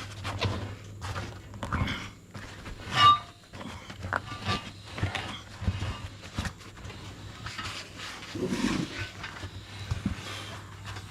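Irregular knocks and clanks of metal being handled, with one loud ringing clang about three seconds in.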